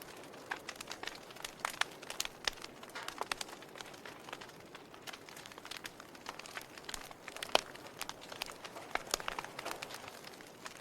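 Wood logs burning in a fireplace: irregular crackles and sharp pops over a soft steady hiss of the flames, with one louder pop about seven and a half seconds in.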